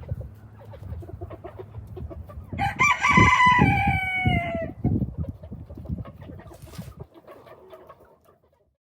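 A rooster crows once, a call of about two seconds that drops in pitch at the end, with hens clucking around it. The sound fades out near the end.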